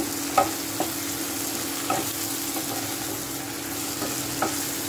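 Baby corn and vegetables sizzling in a nonstick pan as a wooden spatula stirs them, with a few knocks of the spatula against the pan, the loudest about half a second in.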